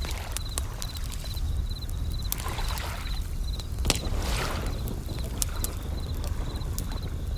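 Japanese bell crickets (suzumushi) chirping in short high-pitched trills repeated in groups, over a wood fire crackling with sharp pops. Waves wash in twice, swelling and fading, over a low steady rumble.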